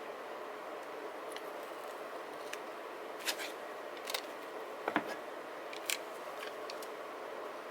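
Paper-crafting handling sounds: four or five short, sharp clicks and snips from about three to six seconds in, over a steady background hiss.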